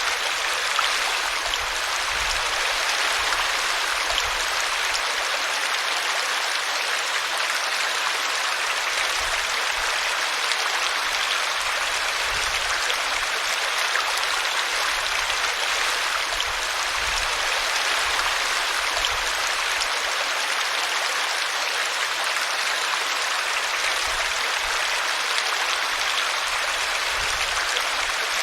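Small brook babbling and splashing steadily as the water tumbles over a tree root.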